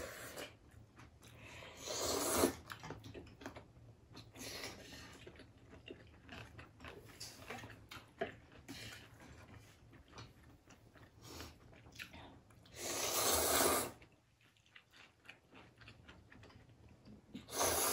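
Close-miked eating of ramen with crunchy bean sprouts and squid: steady chewing and crunching, with a few louder one-second rushing bursts, the loudest about thirteen seconds in.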